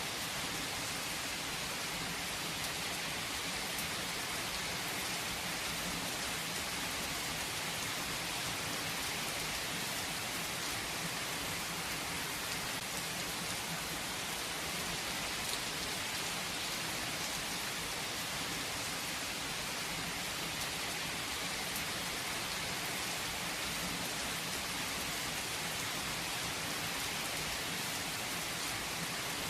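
Steady rain falling and pattering on a surface, an even hiss without a break.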